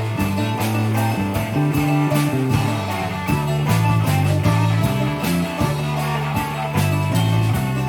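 Live rock band playing an instrumental passage: electric guitar and viola caipira over an electric bass line, with a steady drum-kit beat.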